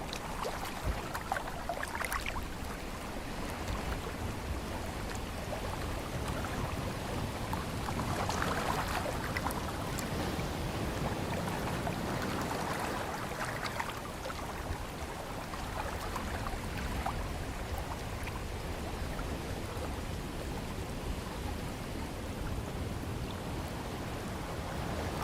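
Ocean surf washing in a steady rush of water noise, swelling louder a couple of times, with faint scattered splashes.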